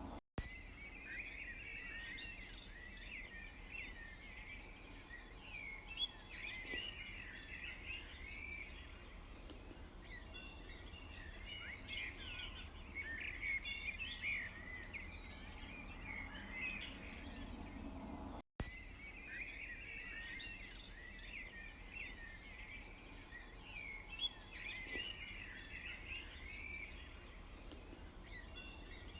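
Many small songbirds chirping and twittering at once, quick overlapping calls over a faint low background rumble. Two very short drop-outs, about half a second in and again about 18 seconds in, after which the same birdsong pattern repeats.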